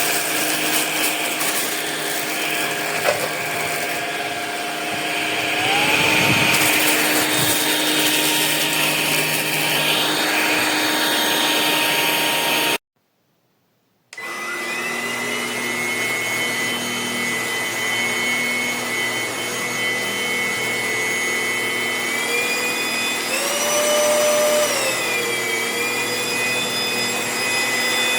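Cordless stick vacuum motor running with a steady high whine. About halfway through it cuts out for a second or so, then spins back up with a rising whine. A little later its pitch shifts up briefly and settles back down.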